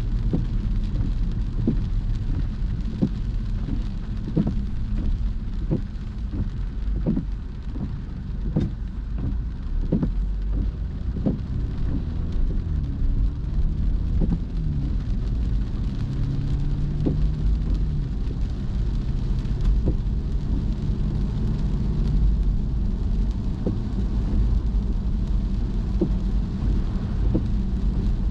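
Rain hitting a car as it is driven, with scattered sharp drop ticks over a steady low rumble of road and engine noise.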